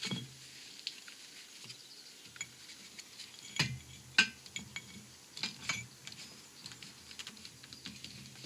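Scattered light metallic clinks and knocks from steel parts being handled and set in place on a hydraulic shop press, the two loudest about three and a half and four seconds in.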